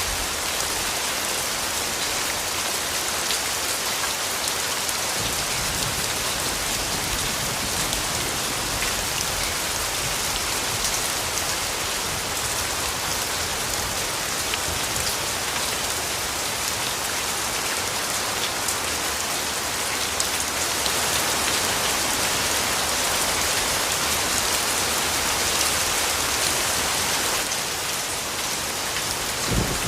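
Steady rainfall, drops pattering on surfaces in an even hiss with many small ticks of individual drops.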